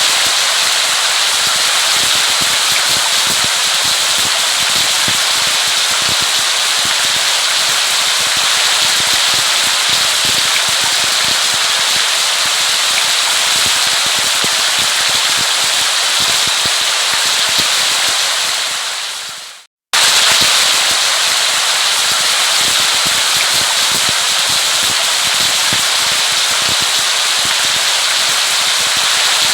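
Heavy steady rain, a dense crackling patter of drops on a hard surface. About twenty seconds in it fades out, goes silent for an instant and cuts straight back in, the joint of a looped recording.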